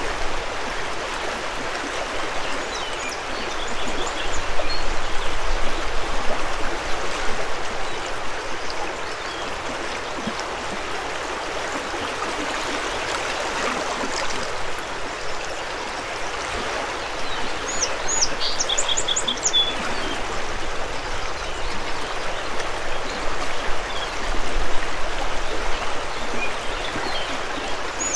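Mountain river flowing steadily, a constant rush of water. Small birds sing short high phrases over it a few times, most clearly about two-thirds of the way through and again at the end.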